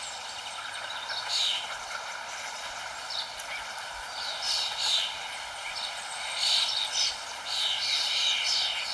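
Songbirds chirping in short clusters of quick high notes, thickening into a denser run over the last few seconds, over a steady outdoor hiss.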